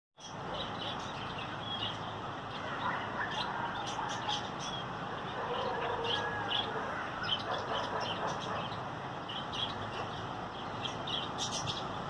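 Birds chirping and tweeting in many short, repeated calls over a steady background hum of outdoor noise.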